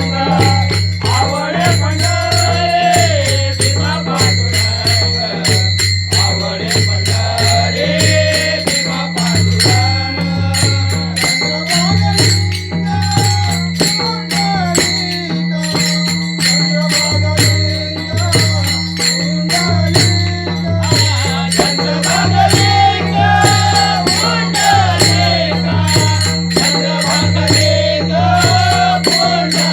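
A male voice singing a Marathi devotional abhang, with a gliding melody and rapid, steady jingling from small hand cymbals over a repeating low rhythmic accompaniment.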